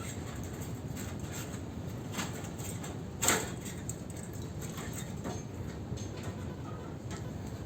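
Hand work on an air conditioner condenser: scattered light clicks and one sharp knock a little over three seconds in, over a steady low background.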